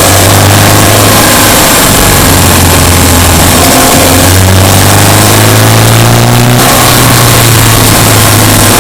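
Subaru Impreza Sport's boxer four-cylinder engine running under load on the move, its pitch stepping and climbing as it revs up between about four and six and a half seconds in, then dropping back.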